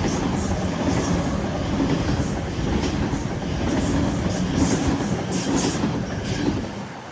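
A train passing through the station without stopping: a steady rumble of wheels on rail with clicking over the rail joints and short high-pitched flashes of wheel noise through the middle, dropping away near the end.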